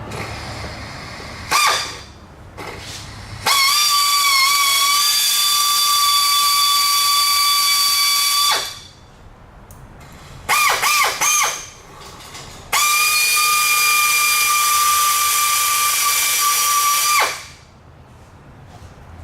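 Power drill drilling out a broken exhaust manifold bolt in the cylinder head of a Dodge 5.7L V8, with a high steady whine. A brief burst comes early, then a run of about five seconds; a few short stuttering pulses follow, then a second run of about four and a half seconds that cuts off.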